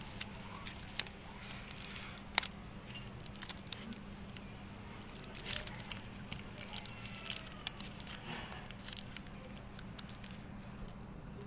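Adhesive tape being pulled off the roll, torn and pressed onto cardboard: irregular crackling and sharp clicks, with a faint steady low hum underneath.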